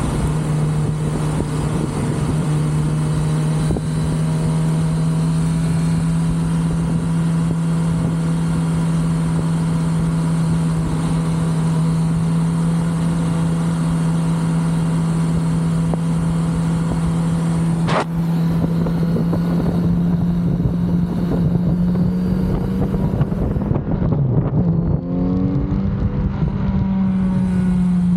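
Kawasaki Z900RS inline-four running through its stock exhaust at a steady cruise, with wind noise. About two-thirds of the way through there is one sharp click. Near the end the engine note dips and climbs again as the revs change, then settles a little higher.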